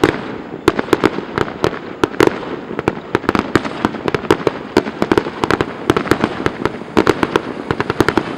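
Fireworks going off in a dense, irregular barrage: many sharp cracks and bangs a second, overlapping, with an echoing rumble beneath.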